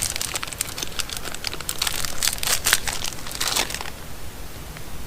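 A Clif Bar's plastic wrapper crinkling as it is handled and opened, in dense crackles that die down about four seconds in.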